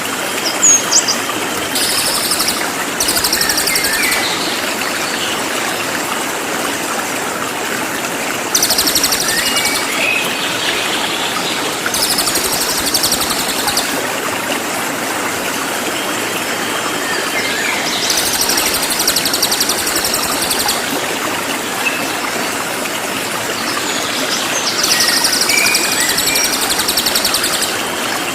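Cililin songbird singing: several bursts of very rapid, high, densely repeated song, each lasting a couple of seconds, with short chirps in between, over a steady rushing-water background.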